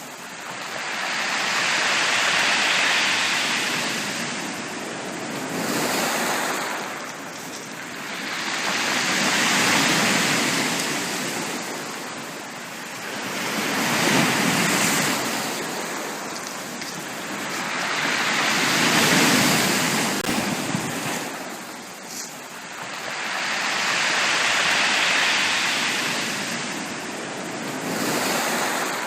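Ocean waves breaking and washing on a beach, swelling and falling back in a slow, even cycle of about one wave every six to seven seconds.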